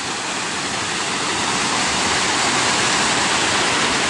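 Cascading waterfall: a steady rush of falling water, growing a little louder over the first two seconds.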